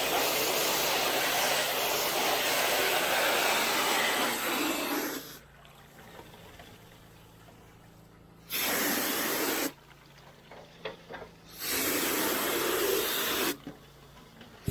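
High-pressure water spray from a pressure-washer wand flushing out a gutter: one long burst that cuts off about five seconds in, then two shorter bursts, each starting and stopping abruptly as the trigger is pulled and released.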